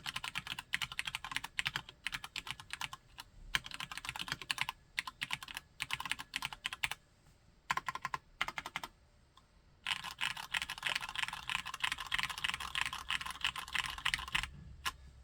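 Typing on a Cherry G80-3000S tenkeyless mechanical keyboard with Cherry MX Brown tactile switches: quick runs of keystrokes broken by two short pauses midway, then a long fast run that stops near the end with one last keystroke.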